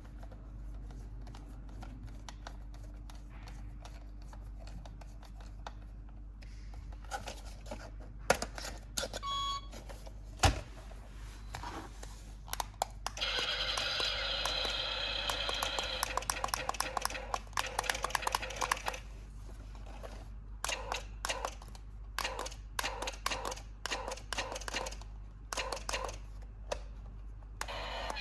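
Plastic toy parts and packaging handled with scattered clicks and taps, a short electronic beep, and about five seconds of a buzzing, pulsing electronic toy sound partway through.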